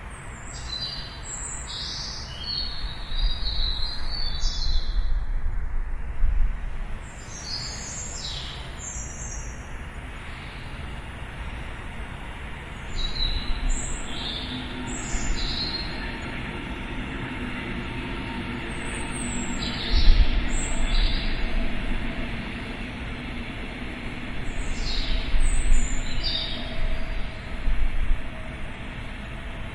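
Small birds chirping in short clusters of high calls every few seconds, over a steady low rumble of distant city noise.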